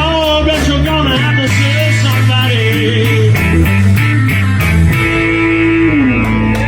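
Live rock band playing an instrumental passage: electric guitar, bass line and drums. The drum hits stop about five seconds in, leaving held notes and a low note that glides downward.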